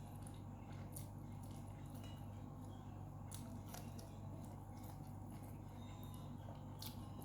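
A person chewing food, with faint wet smacks and clicks from the mouth scattered through, over a steady low hum.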